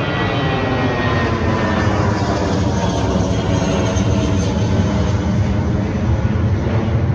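Airliner taking off and climbing out low overhead: a loud, steady engine rumble with a layered whine that slowly falls in pitch.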